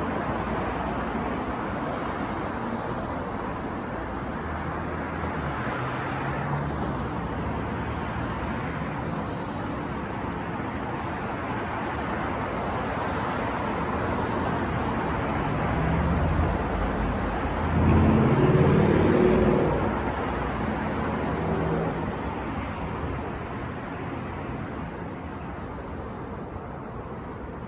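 City street traffic: a steady wash of passing cars, with one louder vehicle engine going by about two-thirds of the way through, after which the traffic quietens a little.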